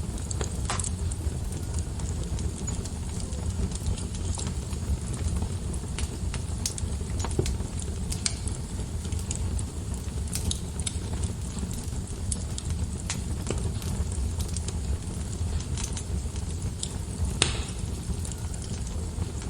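Fire burning in a fireplace: a steady low rumble of flames with scattered crackles and pops, one sharper pop near the end.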